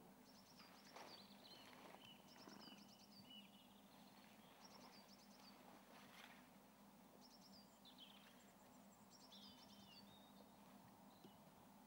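Faint birdsong: small birds giving repeated short, high trills and chirps, over a low steady hum.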